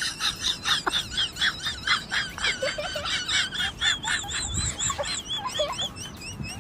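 Birds chirping: many quick, high peeps, with a wavering whistled call running through them.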